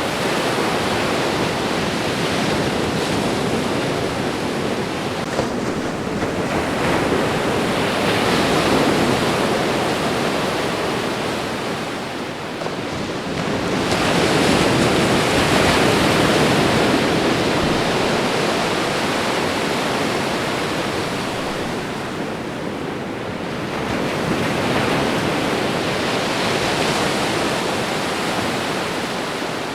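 Ocean waves washing against the shore: a continuous rush of surf that swells and ebbs, with a stronger wave rolling in roughly every eight to ten seconds.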